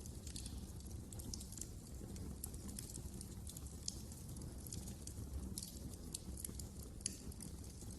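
Wood fire burning in a fireplace: a steady low rumble with irregular crackling and a few sharper pops.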